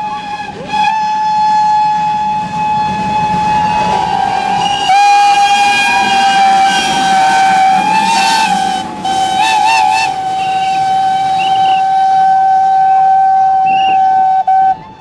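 Steam locomotive whistle blowing one long, steady note. It breaks off briefly about five seconds in, sounds again and stops just before the end, over the rumble of the passing train.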